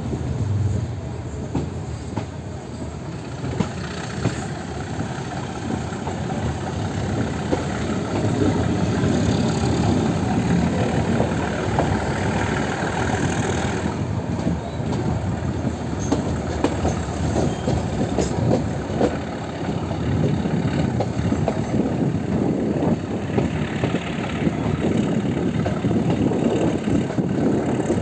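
Metre-gauge passenger train running, heard from an open coach doorway: a steady rumble of the wheels on the track, with a constant fine clatter.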